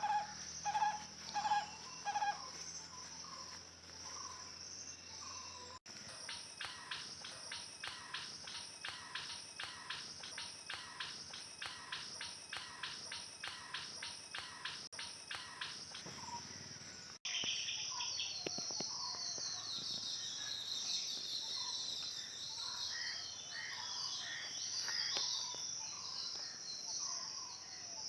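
Steady high-pitched insect drone, like crickets or cicadas. Over it come a few short chirping calls at the start, then a long run of even chirps at about three a second, from an animal: the wild squirrel or a bird.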